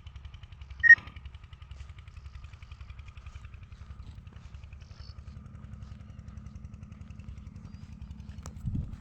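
A small engine running steadily with a fast, even low throb. A sharp, short high chirp comes about a second in, and a dull thump near the end.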